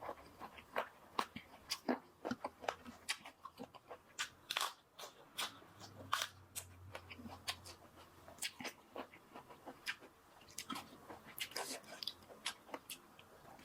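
Close-up chewing and biting of crunchy food: a quick, irregular run of sharp crunches.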